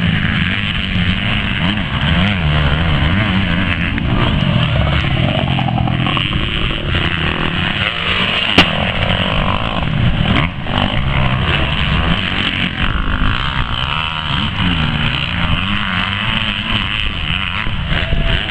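Several motocross motorcycle engines revving, their pitch repeatedly rising and falling as the bikes accelerate and back off. A single sharp crack about halfway through is the loudest moment.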